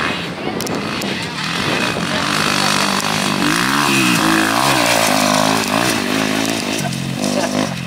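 Motocross dirt bike engine revving on the track, its pitch rising and falling several times in quick succession from a few seconds in as the throttle is worked.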